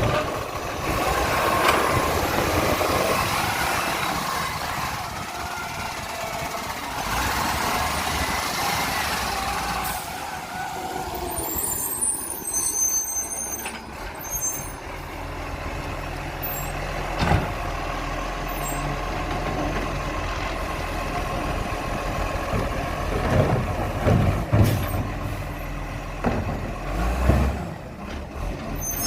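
Garbage truck running, with air-brake hisses in the first ten seconds and a few sharp knocks later on.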